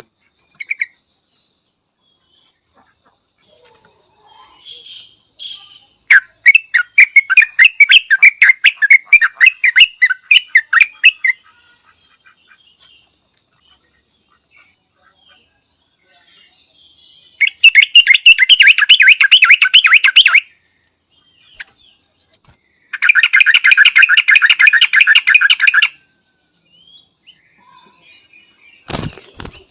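Yellow-vented bulbul calling in three loud bursts of fast, repeated chattering notes, each lasting three to five seconds, with faint scattered calls between them. A short low thump comes near the end.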